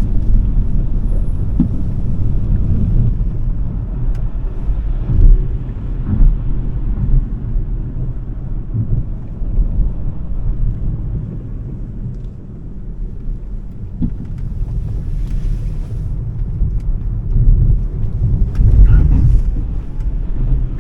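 Smart #3 electric car being driven hard: a steady low rumble of tyres and road, with a few short thumps along the way.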